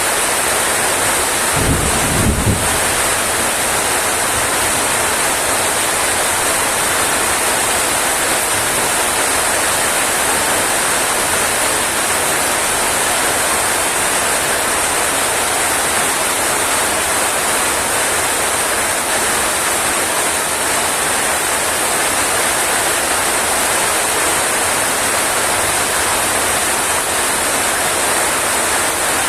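Heavy rain falling, a steady loud hiss. About two seconds in there is a brief low rumble.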